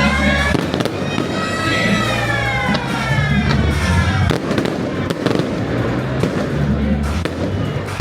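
Fireworks going off in several sharp bangs over loud music with a bass line.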